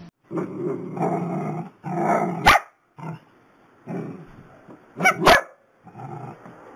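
Long-haired dachshunds barking excitedly in a string of barks with short pauses. Sharp loud clicks come about two and a half and five seconds in.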